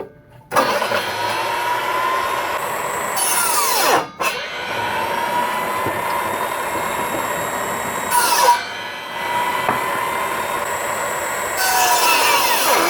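Chop saw on a 44-volt DC motor cutting pallet wood. The motor starts about half a second in and runs with a steady whine, stops briefly near four seconds, and grows louder and harsher three times as the blade bites into the wood.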